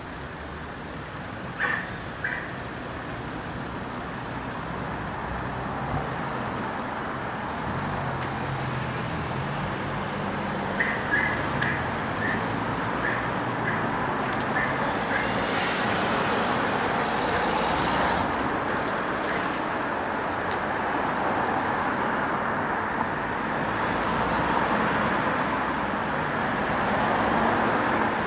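Road traffic going by, a steady wash of tyre and engine noise that builds over the first half and stays up. A few short high chirps sound near the start and again around 11 to 13 seconds in.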